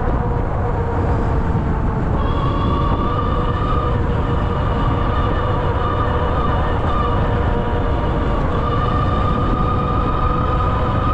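Ariel Rider Grizzly e-bike's electric hub motor whining steadily under power, several tones over a dense low rumble of riding. The whine steps up slightly about two seconds in.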